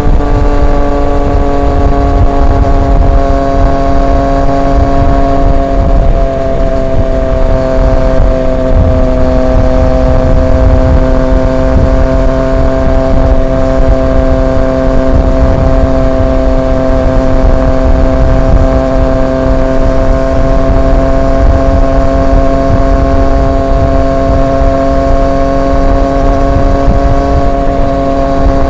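Triumph Street Triple 765 RX's three-cylinder engine running through an SC Project S1 exhaust at steady cruising revs, settling slightly lower in pitch in the first few seconds and then holding steady, over a heavy low rumble.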